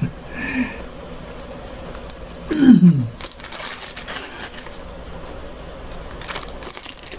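Baking parchment paper crinkling faintly as a hot loaf is handled in it. About two and a half seconds in comes a short, loud vocal sound that falls in pitch.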